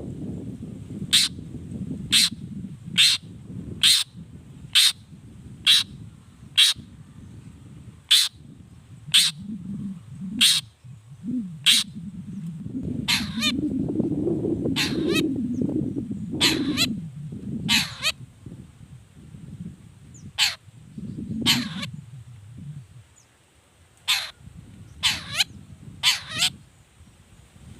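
Long-tailed shrike (cendet) calling: short, sharp calls about one a second, then more irregular, some sweeping down in pitch. A low rumble runs underneath and swells in the middle.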